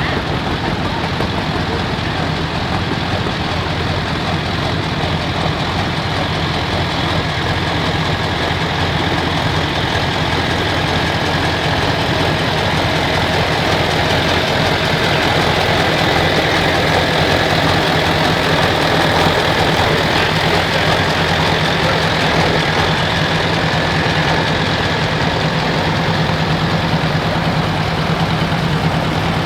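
An engine running steadily, growing a little louder over the first half.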